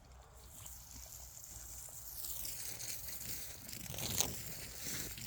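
Water running, likely from a hose filling the animals' water: a rushing hiss that builds up over the first two to three seconds, with a few clicks and knocks in the second half.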